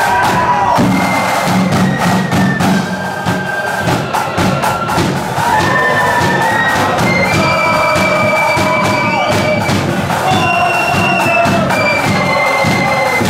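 Marching flute band playing a tune: shrill flutes carrying the melody over rapid snare and bass drum beats.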